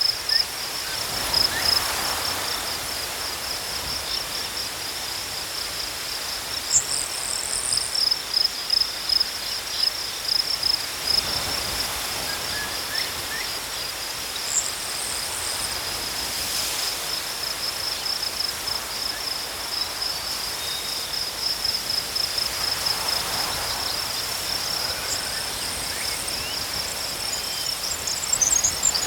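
Crickets chirping in a steady, rapidly pulsing high trill. A few short, higher buzzy calls break in now and then.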